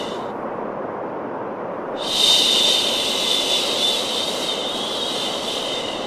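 Steady white noise for baby sleep with a long shushing "shh" laid over it; the shush breaks off just after the start and comes back about two seconds in, holding for about four seconds.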